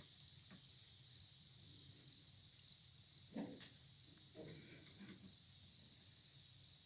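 Evening insects chirping: a steady high-pitched chorus with a pulsed chirp repeating about three times a second.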